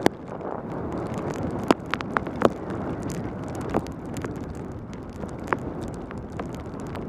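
Wind rushing over a helmet-mounted camera on a mountain bike's fast descent on a wet road, with tyre hiss beneath. Several short sharp clicks and knocks cut through, the loudest just after the start and around two seconds in.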